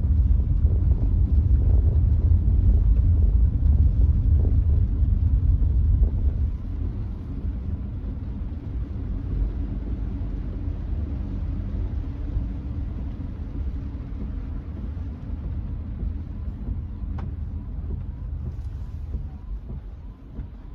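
Road noise inside the cabin of a Nissan Note e-POWER on a wet expressway: a steady low rumble with a faint hiss. It drops noticeably about six seconds in and runs on more quietly.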